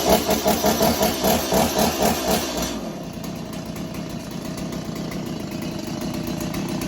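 Two-stroke chainsaw engine running, just after catching. It pulses in quick uneven swells for the first few seconds, then settles to a steady run.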